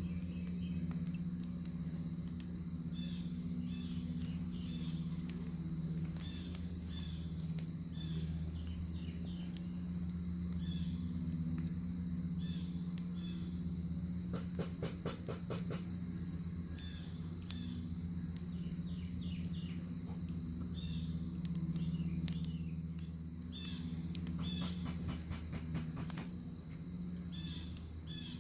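Bacon sizzling over a fire: a steady high frying hiss with scattered pops and crackles, some in quick runs.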